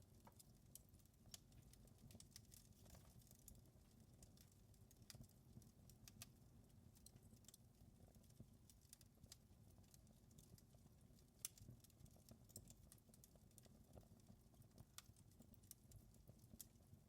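Wood fire crackling faintly: small pops and snaps come at irregular times over a low, steady rumble of the flames, with one louder pop about two-thirds of the way through.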